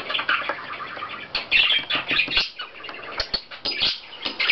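Pet budgerigar chattering: a busy, continuous stream of warbles and chirps, with short sharp clicks and taps mixed in throughout.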